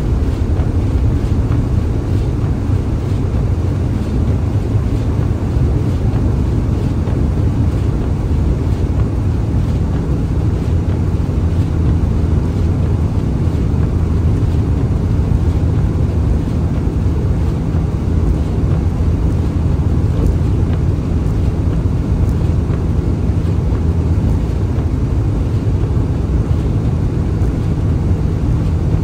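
Vehicle driving, heard from inside: a loud, steady low road-and-engine rumble, with a steady hum joining about ten seconds in.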